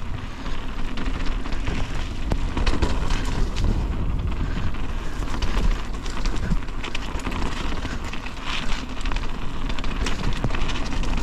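Mountain bike descending a rough, wet, muddy trail: a steady rush of wind over the microphone with a low rumble, tyres on wet dirt, and many quick rattles and knocks as the bike goes over bumps and rocks.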